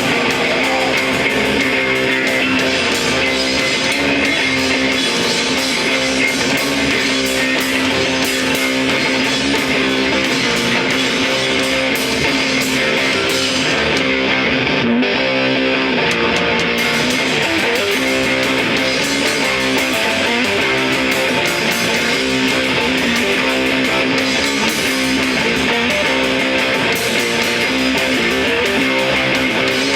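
Loud, dense guitar-driven band music played without a break; the top end drops away briefly about halfway through.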